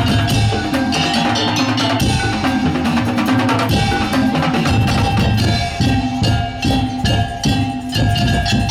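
Madurese daul (tong-tong) ensemble playing: wooden slit drums and drums beat a dense rhythm over held melodic tones. The beats grow stronger and more regular about halfway through.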